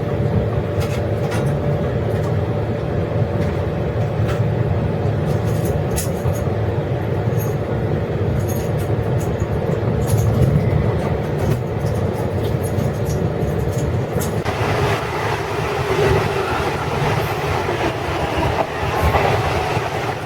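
Running noise of a 12-series passenger coach on rails: a steady rumble with scattered clicks, and about two-thirds in a brighter hiss joins.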